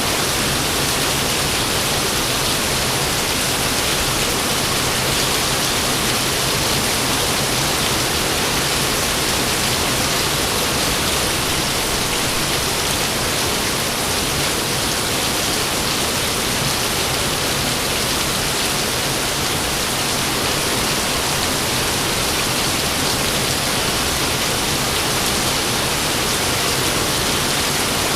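Steady rain falling, an even loud hiss with no thunder or other distinct events.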